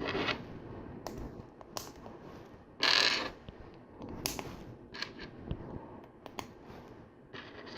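Small plastic LEGO click hinge pieces being snapped and ratcheted together: a scatter of sharp little clicks, with a louder rasping burst of clicking about three seconds in.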